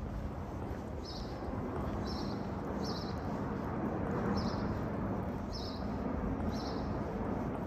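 A bird repeating a short, high chirp about once a second over a steady low city rumble.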